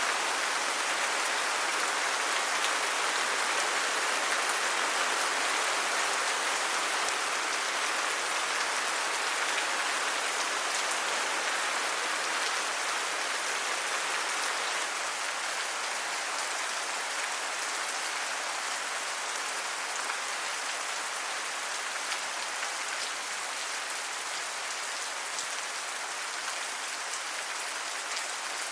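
Steady rain falling, an even hiss of drops that eases slightly in the second half.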